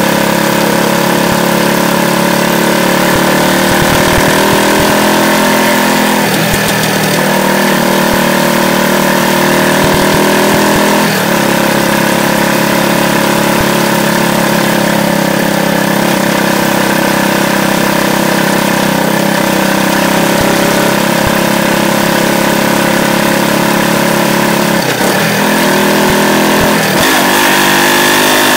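Yamaha YZF-R125's 125 cc single-cylinder four-stroke engine running steadily under way, with its anti-pollution valve removed, heard through a microphone fixed under the bike. The note dips briefly a few times and rises near the end.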